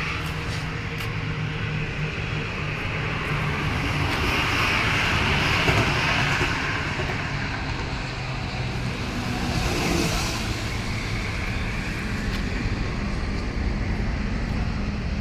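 Diesel engine of a SANY motor grader running steadily, the noise swelling twice, around five seconds and again near ten seconds in.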